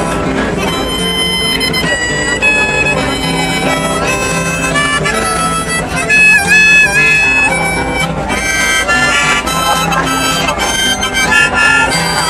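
Harmonica playing an instrumental lead-in to a folk song, with held notes and a bent, wavering note about six seconds in, over steady lower accompanying notes.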